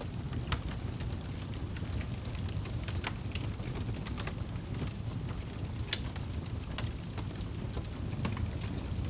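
Crackling fire with rain: irregular sharp pops and snaps over a steady low rush.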